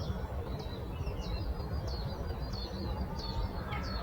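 Small songbirds chirping: a busy run of short, high notes, each dropping quickly in pitch, several a second, over a steady low rumble of outdoor ambience.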